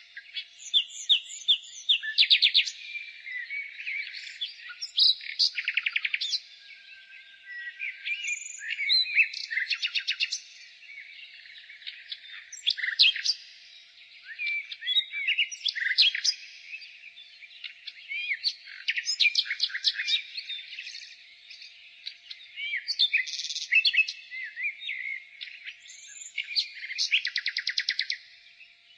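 Nightingale singing a varied run of phrases: clear whistles, slurred notes and fast rattling runs of repeated notes, each phrase separated by short pauses.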